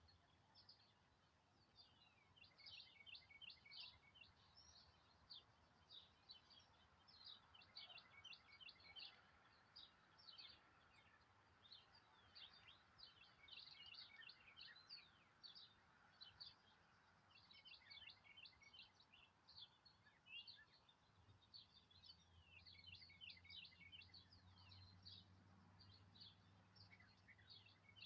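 Faint, continuous chorus of small birds chirping, many quick, high chirps overlapping throughout. A low hum comes in about two-thirds of the way through.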